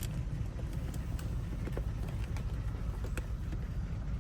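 A steady low rumble with scattered light clicks and taps, from hand tools working at a Toyota RAV4's lock.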